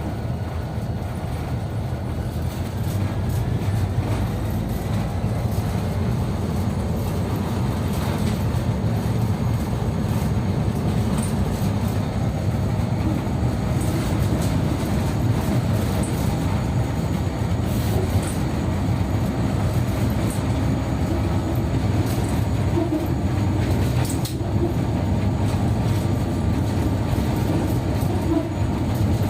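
Diesel locomotive running with a steady low drone, with scattered faint clicks.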